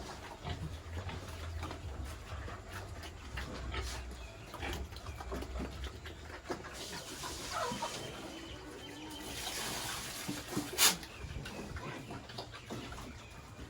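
Farm animals in pig pens calling, with scattered knocks and rustles. A hiss runs from about seven to eleven seconds in, and one sharp knock comes near the end.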